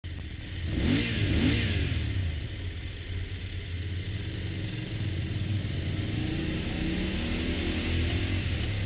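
BMW F900 GS 895 cc parallel-twin engine running through its factory Akrapovic exhaust. The throttle is blipped twice in quick succession about a second in, then the engine idles, with the revs rising gently near the end.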